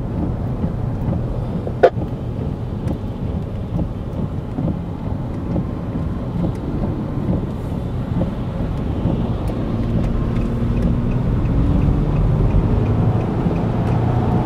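Steady low road and engine rumble inside a moving vehicle, with a single sharp click about two seconds in.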